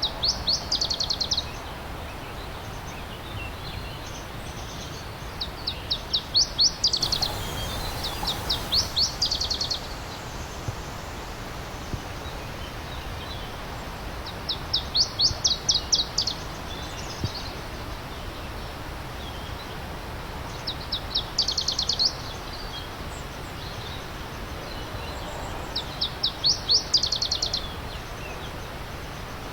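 A songbird repeating a short, fast trill of rapid high notes about six times, a few seconds apart, over the steady rush of a running stream.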